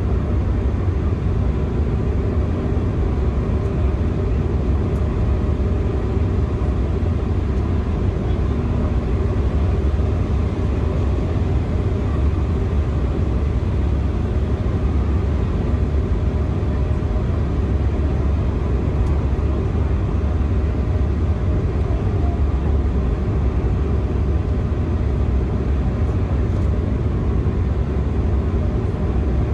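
Steady cabin noise inside an Embraer E175 jet airliner in flight: a constant deep rumble of engines and rushing air, unchanging throughout.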